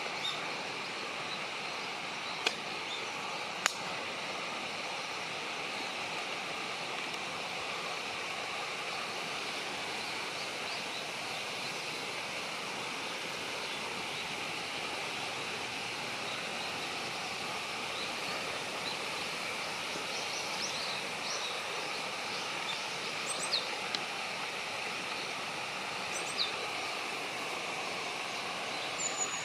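Steady outdoor background hiss, with two sharp clicks near the start and a few short, high bird chirps scattered through the second half.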